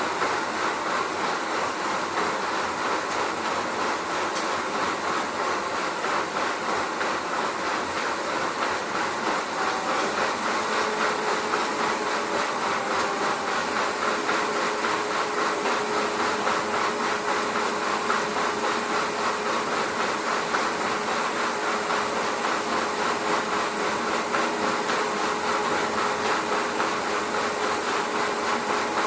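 Rotary hammer drill boring into concrete, running steadily with a fast, even hammering for the whole stretch; a faint steady hum joins in about ten seconds in.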